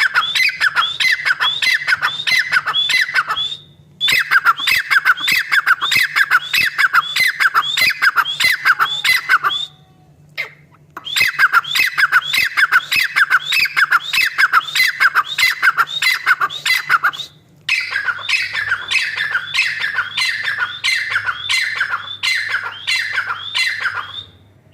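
Female francolin (teetar) calling: a fast series of sharp, squeaky notes, about three or four a second, in long runs broken by three short pauses.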